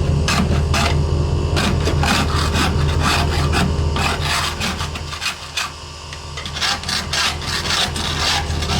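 Husky portable tire inflator running: a steady low motor hum with a fast rasping chatter from its pump. The sound sags briefly about five seconds in, then picks up again.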